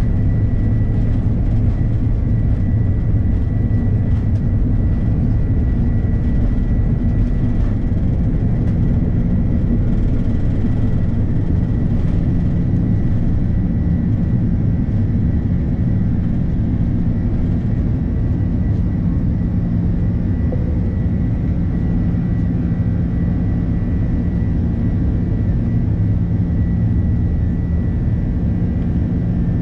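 Airbus A330-300 jet engines running steadily, heard inside the cabin as a continuous low rumble and rushing noise with a faint high whine.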